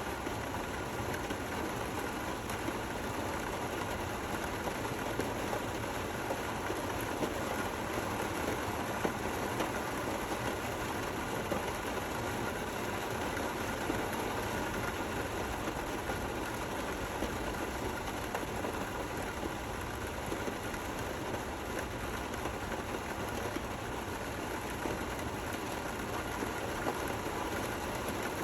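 Steady rain falling, with a few slightly louder drops standing out now and then.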